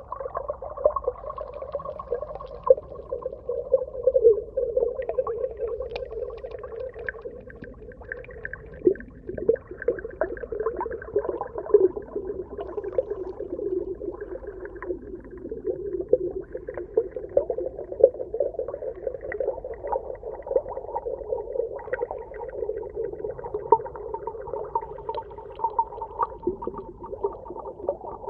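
Underwater ambience: a muffled, slowly wavering drone dotted with constant small crackles.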